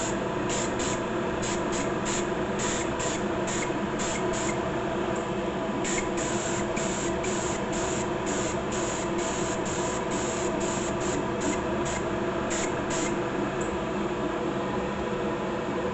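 Clear coat being sprayed onto a plastic model in many short hissing bursts, each well under a second, over the steady hum of the running spray system. The bursts stop about 13 seconds in, leaving only the hum.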